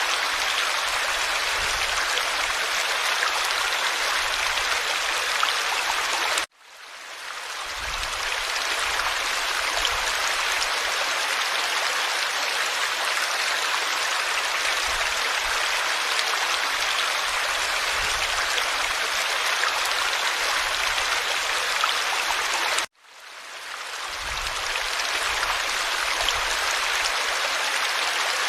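Forest stream flowing steadily over stones. Twice, about six seconds in and again near the end, the water sound cuts out abruptly and fades back in over a second or two.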